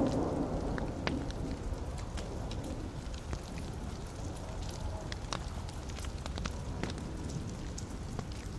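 Wood fire burning in a fireplace: a low steady rumble of flames with scattered sharp crackles and pops from the logs. A louder soft surge right at the start dies away within about a second.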